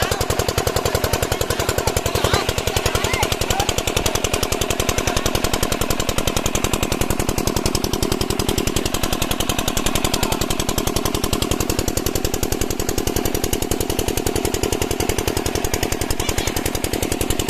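Small diesel water pump set engine running steadily, a rapid, even knocking beat of many firing strokes a second.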